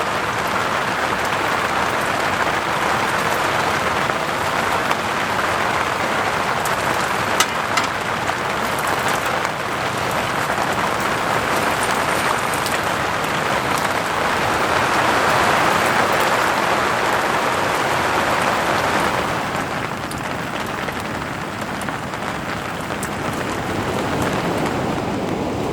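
Steady rain falling, an even hiss with a few sharper drop taps, easing slightly near the end.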